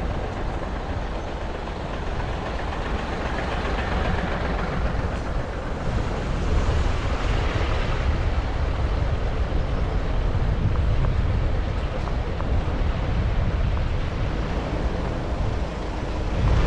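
Wind rumbling over an action camera's microphone while riding a bicycle, with steady road and vehicle noise under it.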